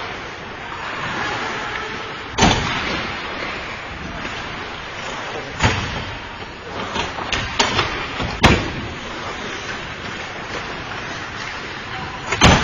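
Hockey play: sharp knocks of the puck and sticks against the rink boards, about five of them, the loudest about two and a half seconds in and near the end, over steady rink noise.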